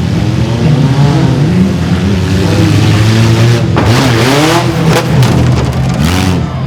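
Mini monster truck's engine revving hard, its pitch climbing and dropping several times as the truck accelerates, with a loud rush of noise a little past the middle.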